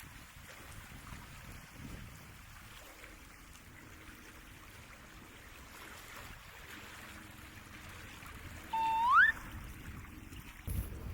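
Steady wash of seawater on the shore. About nine seconds in, a single short whistle-like note holds briefly, then glides sharply upward.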